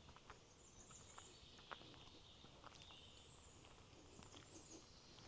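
Near silence: faint outdoor ambience with a few soft, scattered ticks and a faint high chirring.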